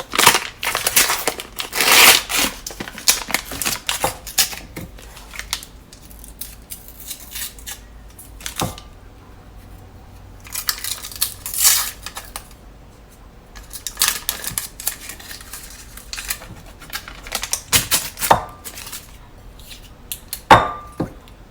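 Kitchen handling sounds: a stick of butter being unwrapped into a mixing bowl, with wrapper rustling, irregular clicks, and a few short ringing clinks of a utensil against the bowl.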